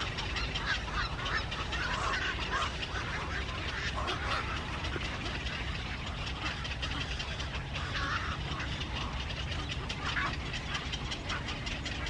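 Birds calling over and over in short, rough calls, over a steady low rumble.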